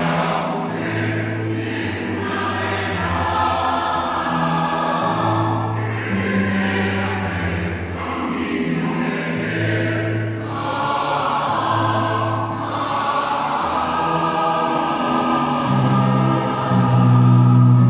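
Choir singing, with long held chords that change every second or two.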